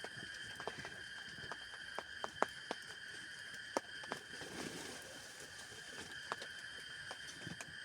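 Scattered raindrops tapping irregularly on a tent, a few sharp ticks a second, over a steady high-pitched hum.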